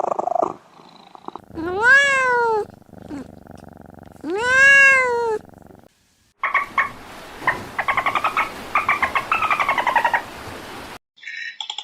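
Animal calls: two drawn-out calls that rise and then fall in pitch, about two seconds apart. After a short break comes a rapid run of pulsed, clicking calls for several seconds.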